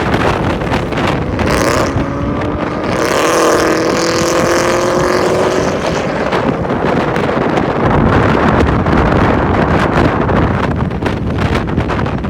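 Loud car engine noise with an engine revving, its pitch climbing between about two and six seconds in.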